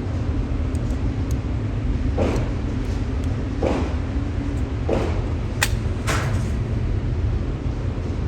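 Steady low rumble with five sharp knocks and clicks between about two and six seconds in: three evenly spaced, then two quicker, crisper clicks.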